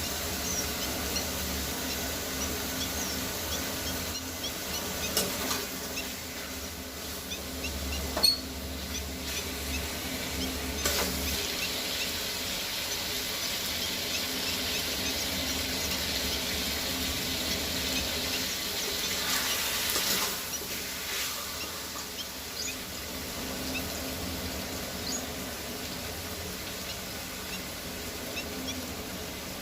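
Food frying in oil in a pan: a steady sizzle with scattered small crackles, and a few sharp knocks of a cooking utensil against the pan.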